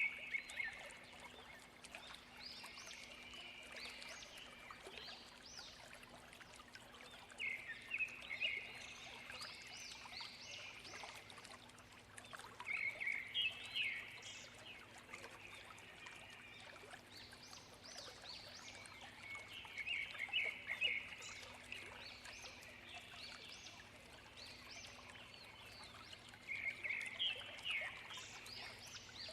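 A songbird repeats a short phrase of rapid, high, chattering notes about every six or seven seconds, over the steady rush of a waterfall.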